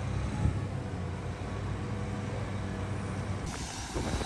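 Large diesel engine idling steadily with a low, even hum. The sound changes abruptly about three and a half seconds in.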